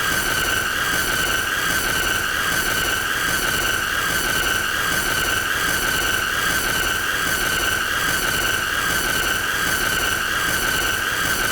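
A continuous shrill, high-pitched squealing tone with fainter overtones, wavering slightly in pitch over a steady hiss.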